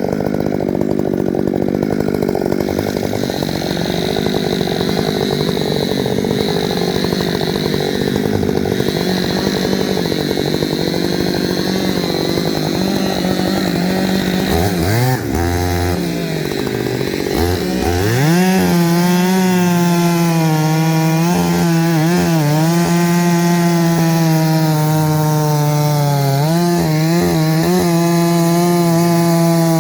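Chainsaw running at high revs, cutting poplar wood. About halfway through, the revs drop and climb again, then the saw runs steadily with a few brief dips in pitch.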